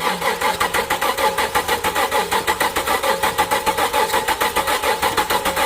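2008 Dodge Charger 3.5 L V6 turning over on its starter motor without firing, spark plugs out for a compression test: a steady, rhythmic chugging of cranking.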